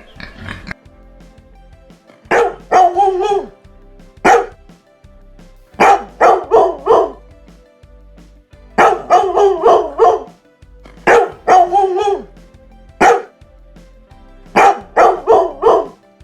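Dog barking repeatedly in quick runs of several barks, with a few single barks between, over soft background music.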